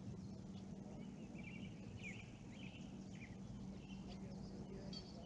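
Faint songbird chirps and short warbling calls, bunched in the middle, over a steady low outdoor hum.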